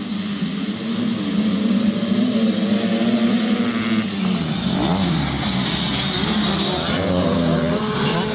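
Several motocross motorcycle engines revving hard and easing off, their overlapping pitches rising and falling as the bikes race.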